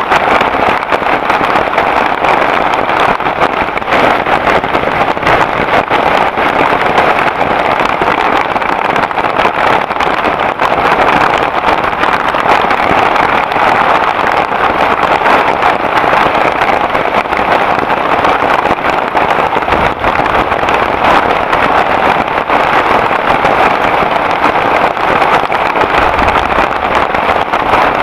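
Heavy rain pouring down without a break, a loud, steady hiss.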